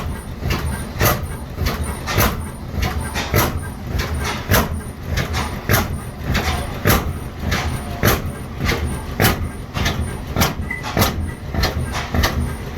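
Ajax-Ball half-breed oilfield hit-and-miss engine running, with a sharp, even exhaust beat a little more often than once a second over a steady low rumble.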